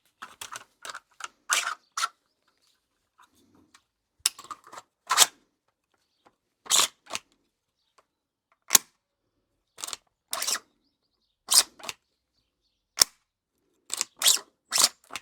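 A dozen or so sharp mechanical clicks and clacks at irregular intervals, several in quick pairs: the bolt of a 3D-printed DVL-10 gas airsoft sniper rifle being cycled and the trigger pulled. The rifle fails to fire because its worn-down firing pin does not strike the valve in the gas magazine.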